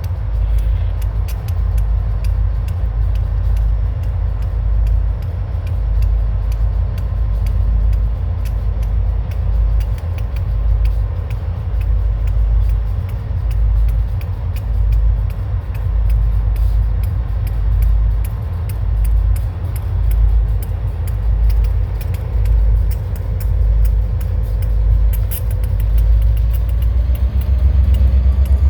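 Freight train rolling past: a steady low rumble with a run of clicks from the wheels.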